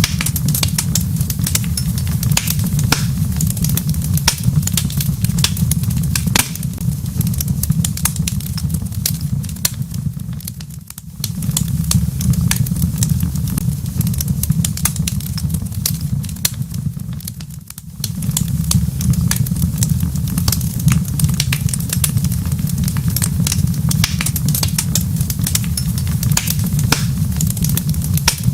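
Wood fire crackling in a fireplace: a dense run of small pops and snaps over a steady low rumble. The sound dips briefly twice, about eleven and eighteen seconds in.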